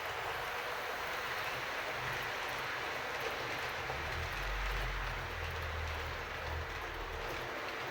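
HO-scale model trains running on layout track: a steady rolling rattle of metal wheels on rails. A low hum from the motors swells about four seconds in and fades a couple of seconds later.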